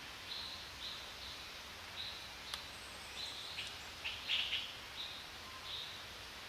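A bird chirping in short, high calls that repeat roughly every half second, loudest about four seconds in, over steady forest background noise, with a couple of faint clicks.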